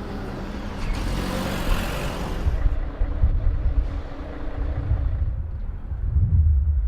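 A car drives past: tyre and engine noise swells and fades away about two and a half seconds in. A low, gusty rumble of wind on the microphone stays underneath.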